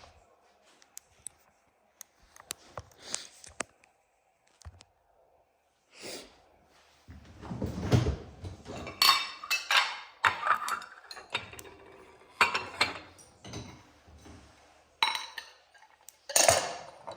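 Dishes and cutlery clinking and clattering as a dishwasher is unloaded: a few light clicks at first, then from about six seconds in a busy run of sharp clinks and knocks of plates and utensils being lifted out and set down.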